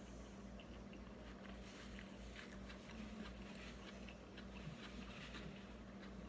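Faint chewing of a mouthful of cheesy chicken quesadilla: soft, irregular wet mouth clicks and crackles over a low steady hum.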